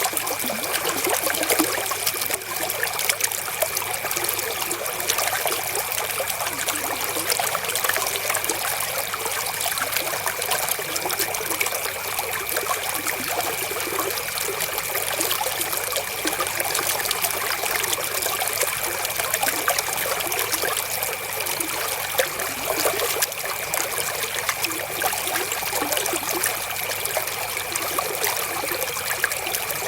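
River water flowing and trickling: a steady, unbroken babble of many small splashes.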